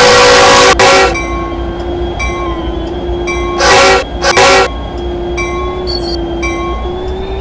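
Freight locomotive horn sounding: a loud blast that ends about a second in, then two short blasts near the middle. Between the blasts a steady tone holds, with a ringing that repeats at an even pace.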